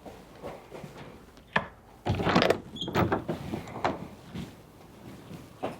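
Knocks, clicks and clatter of things being handled and moved, loudest in a noisy stretch a little after two seconds in, with sharp clicks about a second and a half in and near the end.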